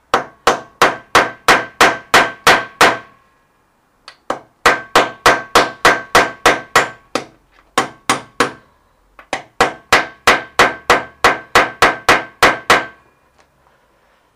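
Hammer blows on metal in three quick runs of about ten strikes each, roughly three a second, each blow with a short metallic ring. A replacement bearing is being driven into the spin bike.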